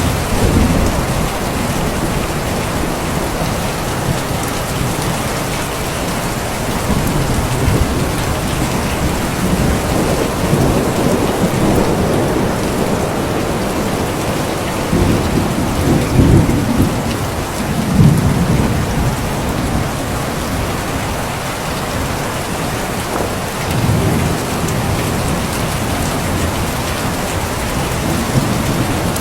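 Steady heavy rain falling, with low rumbles of thunder swelling and fading several times, most strongly past the middle.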